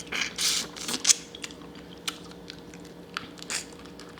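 Blue crab being eaten close to the microphone: the shell clicking and crackling as it is broken and picked apart, with chewing, in a string of short bursts that are densest in the first second.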